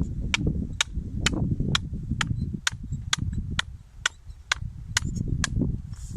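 Wind buffeting the microphone as a low rumble, with a steady series of sharp clicks a little over twice a second.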